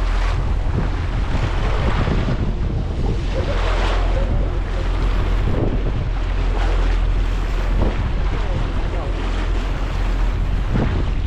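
Tour boat under way at sea: a steady low rumble with water rushing and splashing past the hull and wind buffeting the microphone.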